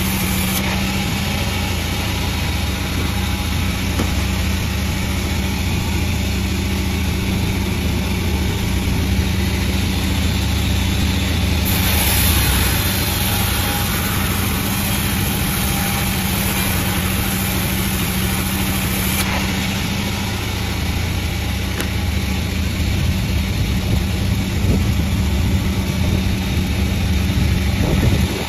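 Panda36 sawmill machine running steadily with a constant engine-like hum. Its sound turns brighter and hissier for several seconds in the middle.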